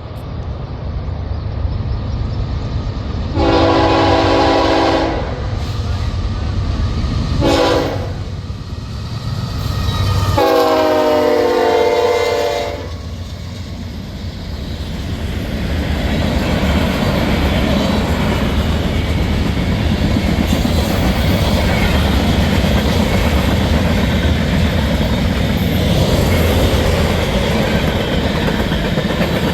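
Norfolk Southern freight locomotive sounding its air horn three times, long, short, long, the last blast sliding lower in pitch as it nears and passes. The freight train then rolls by with a steady loud rumble of locomotive and cars on the rails.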